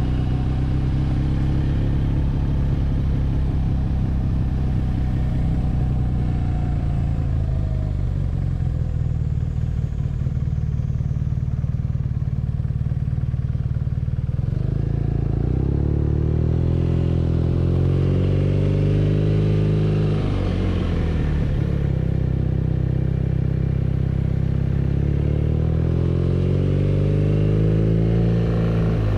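BMW R nineT's 1170 cc air-cooled boxer twin under way: it runs steadily for the first half, then climbs in pitch as it accelerates, dips briefly, and climbs again near the end.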